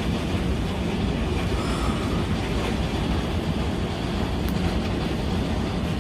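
Deep, steady rushing of storm floodwater running like a river down a street.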